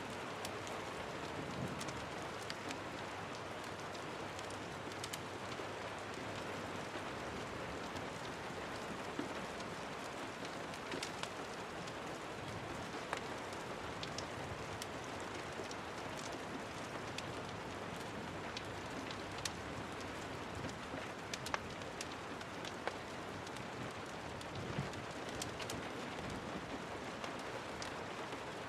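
Steady rain, with scattered sharp pops and crackles from a wood fire every second or two.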